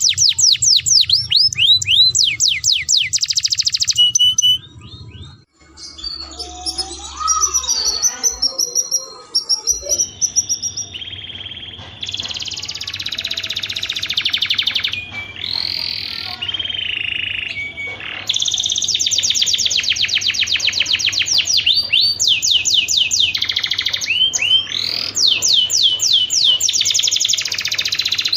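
Domestic canary song: fast trills of repeated high, sweeping notes, broken into several spliced passages, with a quieter, more varied stretch of softer notes and whistles from about a quarter to a third of the way in.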